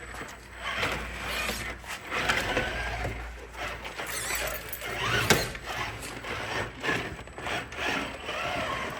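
A brushed-motor RC rock crawler driving: electric motor and gear whine with clicking and scraping from the drivetrain and tyres working over terrain. The motor whine rises in pitch briefly about five seconds in.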